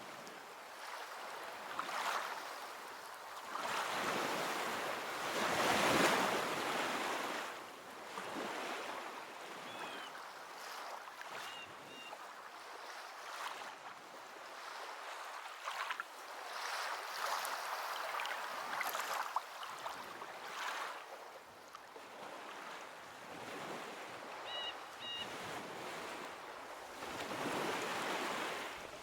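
Ocean waves breaking and washing up a beach in slow, repeated surges, the biggest crash about six seconds in. A few faint short chirps sound during quieter moments between the waves.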